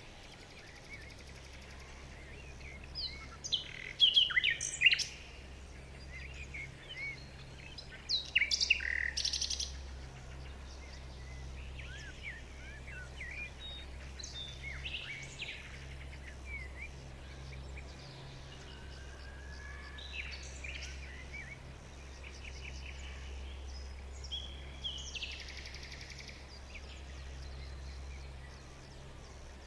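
Several wild birds chirping and calling in a forest, with loud clusters of calls about four and nine seconds in and quieter scattered chirps after, over a steady low hum.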